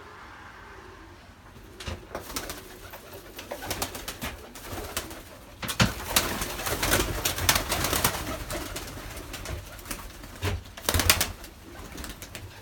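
Pigeons cooing in a small enclosed space, with a run of rustling and knocking bursts that come loudest about halfway through and again near the end.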